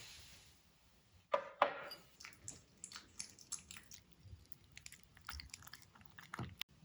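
Crunching and crackling: two loud crisp crunches about a second in, followed by a run of lighter crackles and clicks.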